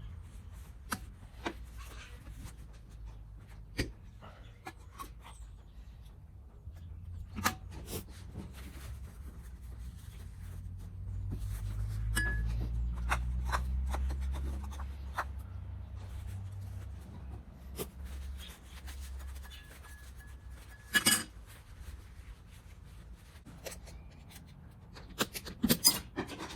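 Hand-work on small metal parts of a gramophone motor board: scattered clicks, taps and rubbing. A low rumble swells for several seconds around the middle, and a quick cluster of sharper clicks comes near the end.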